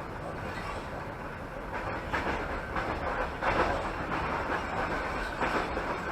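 Passenger train running along the track, heard from inside a carriage: a steady rumble of wheels on rails, with louder clattering stretches about two to four seconds in and again near the end.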